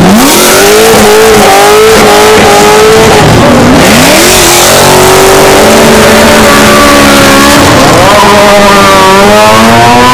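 Car engine revved hard and held at high revs in a burnout. The revs dip briefly twice and climb again.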